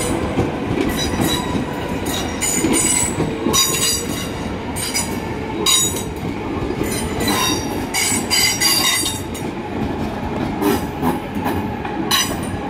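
London Midland Class 350 Desiro electric multiple unit, two units coupled, running slowly into the station over pointwork. There is a steady rumble of wheels on rail, broken by repeated clicks and short high squeals from the wheels.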